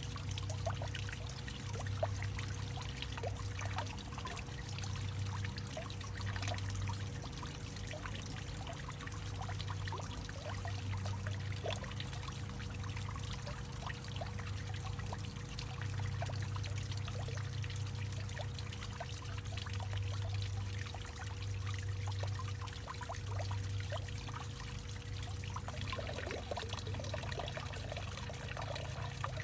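Water trickling and dribbling in a hollowed-out tree, with many small drips and a low hum that swells and fades every second or two.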